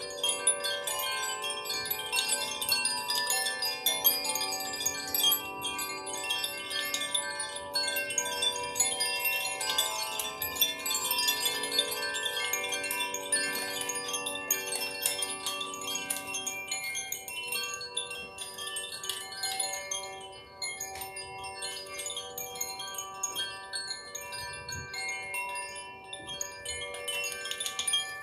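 Chimes ringing continuously: many overlapping sustained tones with a high, shimmering tinkle of fresh strikes, growing a little softer in the second half.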